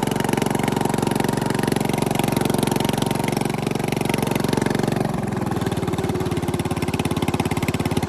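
Bolens riding mower engine running through a homemade exhaust, steady. The engine note changes about five seconds in.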